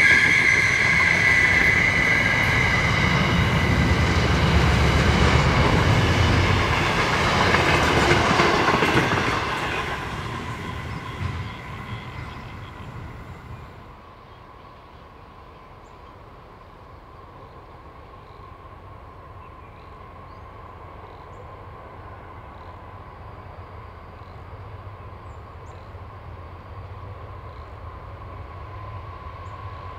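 A diesel train passing close by and moving away: loud for the first ten seconds or so, then fading until only a faint steady rumble remains.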